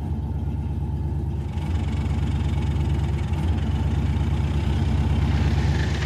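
A car engine idling with a steady fast pulse, getting louder about a second and a half in, then cut off abruptly at the end.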